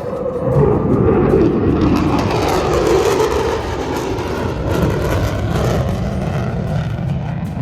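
Jet aircraft engine roaring past. The noise swells about half a second in, and its pitch drops over the next few seconds as the aircraft goes by.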